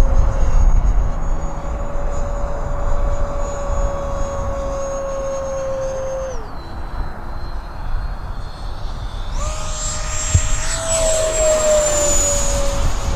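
Electric ducted fan of a Freewing A-4 Skyhawk RC jet whining in flight. The whine drops to a lower pitch about six seconds in; from about nine and a half seconds the jet passes close, louder, its pitch falling as it goes by.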